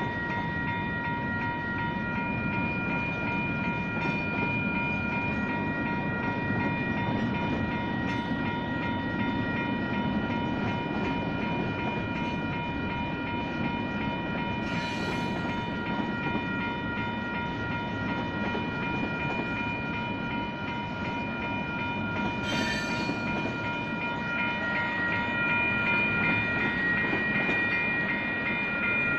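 Railroad crossing bells (WCH Type 1, one on each signal) ringing rapidly and continuously over the rumble of a train rolling through the crossing. Two brief sharp metallic noises stand out, about 15 s and 22 s in.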